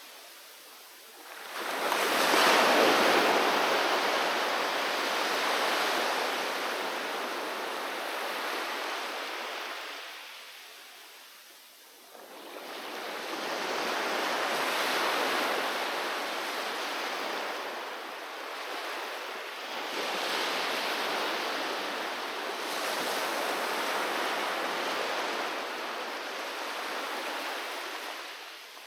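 Sea waves breaking and washing up the shore. One wave breaks about two seconds in and slowly drains away; a second surge builds about halfway through and washes on with smaller swells before fading near the end.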